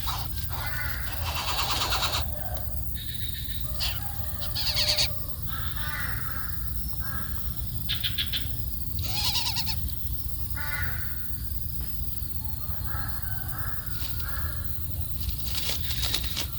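Birds calling: a string of short, harsh calls with several bursts of high chirping in between, over a steady low rumble.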